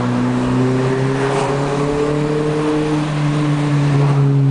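Renault Clio 1.4 RT's four-cylinder petrol engine running loud through an open exhaust, its revs climbing slowly and steadily.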